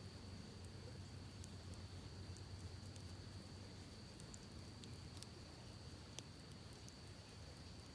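Campfire crackling softly, with scattered sharp pops and snaps a few times a second, over the low steady rush of a creek. A thin, steady high tone runs underneath.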